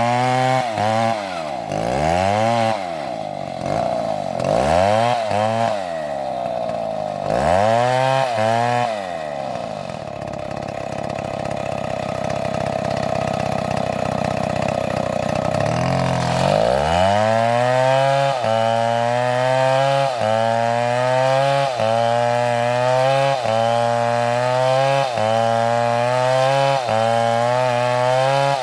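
Chainsaw engine working on a tree: revved up and down several times, then held at high speed for several seconds, then dropping about two-thirds of the way through to a lower speed that rises and falls evenly about once a second.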